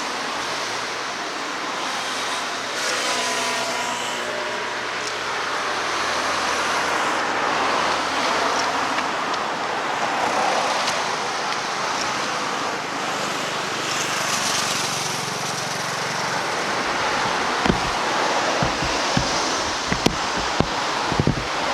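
Steady outdoor rushing noise like distant road traffic, with a faint engine tone rising a few seconds in. Several short low thumps, like wind hitting the microphone, come in the last few seconds.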